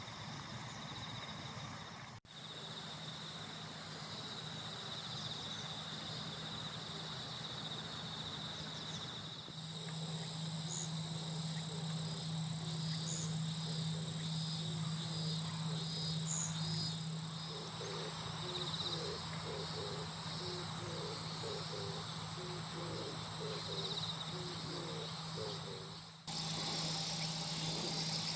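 Late-summer insect chorus: crickets and other insects trilling steadily in a high continuous band. The sound shifts abruptly about two, nine and twenty-six seconds in, and a low steady hum runs under it from about ten seconds in.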